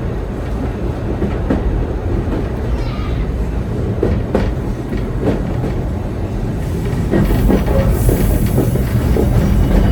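Heritage steam train rolling along the track: a steady low rumble with irregular knocks and clicks from the wheels over the rails. It grows a little louder about seven seconds in, with a high hiss coming up near the end.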